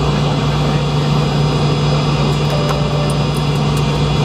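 Steady drone inside the cabin of an MD-80 airliner after landing: the engines and air systems hum without change. A few faint ticks come around the middle.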